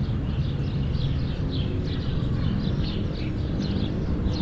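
Many small birds chirping over and over, quick overlapping chirps, with a steady low rumble underneath.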